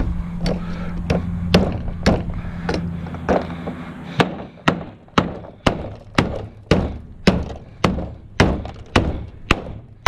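Repeated knocks, just under two a second, from a block of wood being used to beat a stuck piece off a scrap aluminum part. A steady low hum runs under the first few blows and fades out about four seconds in.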